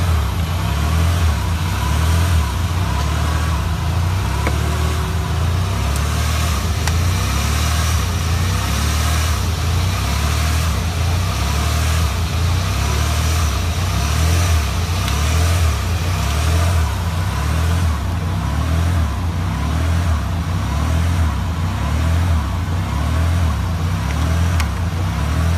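Acura MDX V6 petrol engine running steadily at an even idle, with a constant low hum and no revving.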